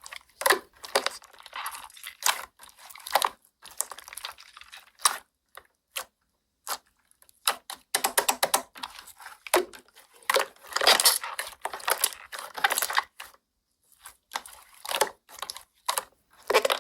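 Slime being squeezed and pressed by hand, making irregular clicks and crackly pops.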